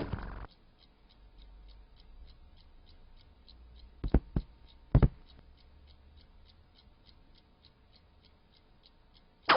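Faint, steady ticking, about four ticks a second, with three short knocks in quick succession a little past the middle. A louder noisy sound cuts off about half a second in.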